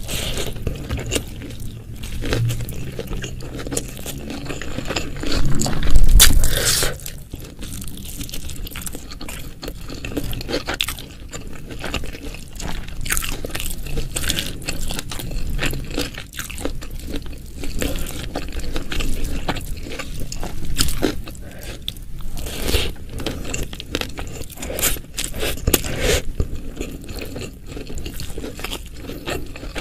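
Close-miked eating: a person biting and chewing crunchy food, with quick crisp crunches coming irregularly throughout and a louder bite about six seconds in.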